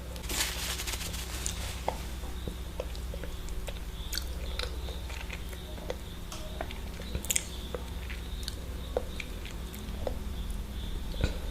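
Close-up eating sounds of a person eating eggs: biting and chewing with many small, scattered wet clicks and a louder noisy burst about half a second in, over a steady low hum.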